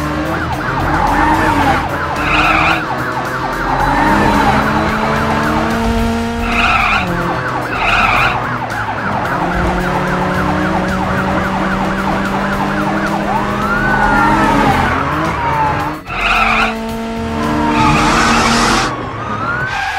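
Cartoon soundtrack of racing cars: engine-hum and tyre-skid sound effects mixed over background music.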